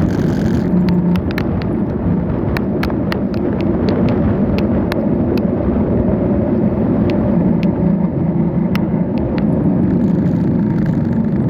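Riding noise from a moving bicycle: a steady low rush of wind and road rumble, with many scattered sharp clicks and rattles.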